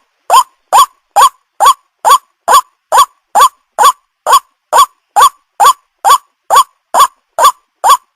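White-breasted waterhen (ruak-ruak) calling: one short, loud note that bends up and back down, repeated at a very even pace of a little over two calls a second.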